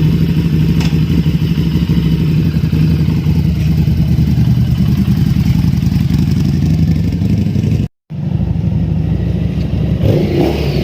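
Harley-Davidson V-twin with an aftermarket Screaming Eagle exhaust running at a steady, even speed, shortly after a cold start. The sound cuts out completely for a moment about eight seconds in, then the engine resumes.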